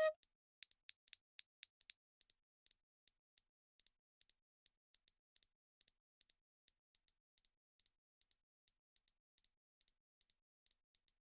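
A series of short, sharp, high-pitched clicks, about four a second at an uneven rhythm, with dead silence between them.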